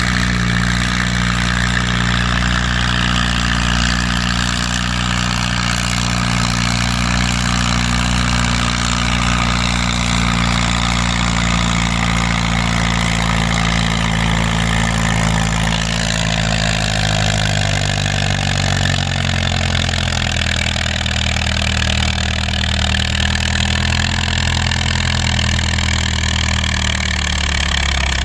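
Farm tractor engine running hard while pulling a weight-transfer sled, a steady loud drone. Over the last ten seconds its pitch slowly sinks as the engine pulls down under the growing load, and it drops off at the very end.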